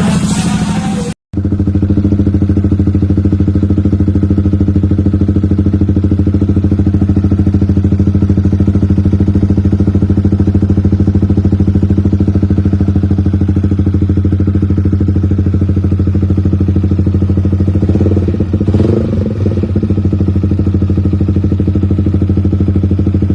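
Yamaha XSR 155 single-cylinder engine idling steadily through an aftermarket muffler. There is a brief break about a second in, and a short unsteady patch about three-quarters of the way through.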